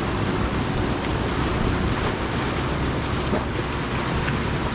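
Steady wash of surf and waves, with wind buffeting the microphone.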